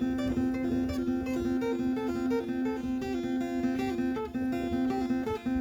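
Music: plucked acoustic guitar playing a repeating melody over a held low note.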